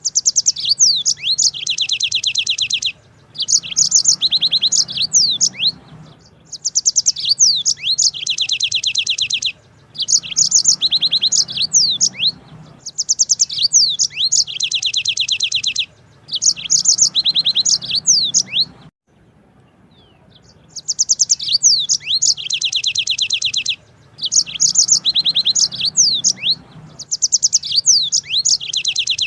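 Yellow-fronted canary (Mozambique canary) singing long, rapid trilled rolls mixed with quick sweeping notes, in phrases of a few seconds separated by short breaks, with one longer pause about two-thirds of the way through.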